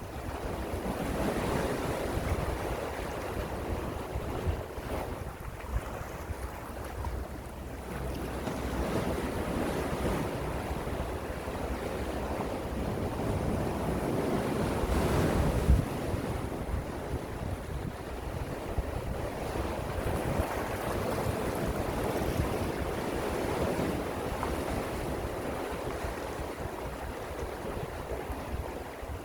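Gentle sea waves washing in and out, the surf swelling and easing every few seconds, with one larger swell about halfway through.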